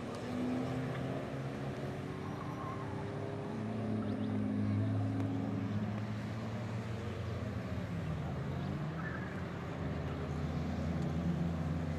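Engines of classic BMW cars, including a 2002 and an E30 3 Series, running laps on a race circuit. The engine note rises and falls as the cars accelerate and pass, loudest about halfway through and again near the end.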